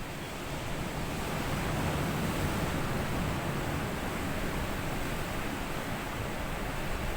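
Ocean waves washing up onto a sandy beach, a steady wash of surf that swells about a second in and holds.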